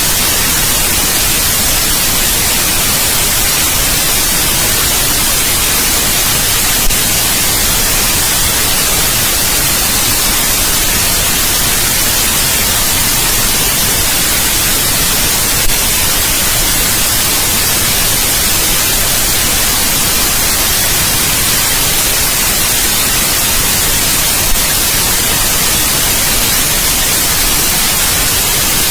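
Steady white noise: an even, loud hiss with no change, brighter in the highs. A faint click recurs about every nine seconds.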